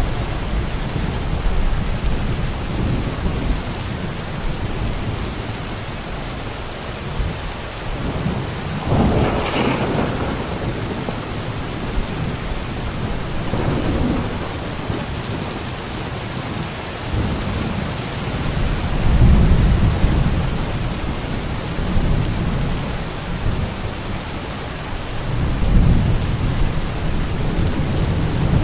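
Steady rain falling, with low rolls of thunder rumbling several times, the strongest about nine seconds in and again near twenty and twenty-six seconds.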